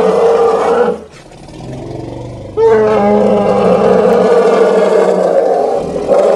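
A large animal calling loudly in long, drawn-out cries. The first call breaks off about a second in. A quieter stretch follows, then a second loud call begins sharply just before three seconds in and runs until an abrupt cut at the end.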